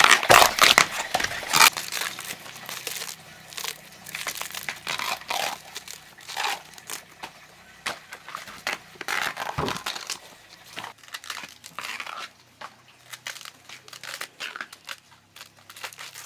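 Dry plant material crackling, crunching and tearing in irregular bursts, loudest in the first two seconds.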